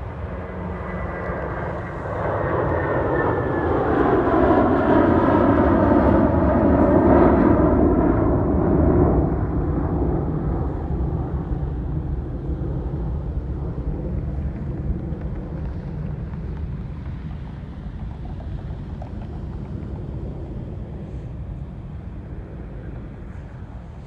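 Boeing 757 jet engines at takeoff power as the airliner climbs past: the sound swells over the first few seconds and is loudest from about four to nine seconds in, with whining tones gliding down in pitch as it passes, then a steady rumble slowly fades.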